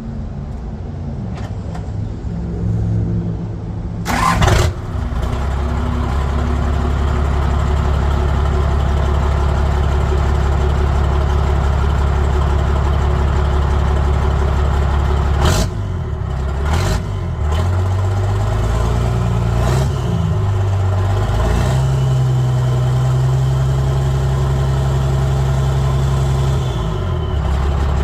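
Straight-piped 5.9 L 12-valve Cummins diesel with a turbo and a 4-inch exhaust into a 5-to-7-inch stack, running loud. A sharp burst comes about four seconds in, and the engine then holds one steady speed for about ten seconds. After that it is revved through several steps and held at a higher speed before dropping back near the end.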